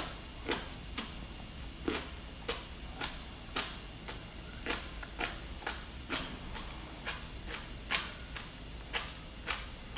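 Wet chewing and lip-smacking on a slippery raw sea anemone: short, sharp smacks about two a second, a little irregular.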